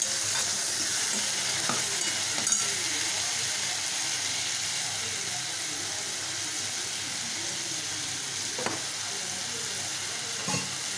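Chopped tomatoes sautéing in hot oil in a pan, a steady sizzle, just after going in. A few sharp clicks of the steel ladle against the pan come during the stirring in the first few seconds, with one more about two thirds of the way through.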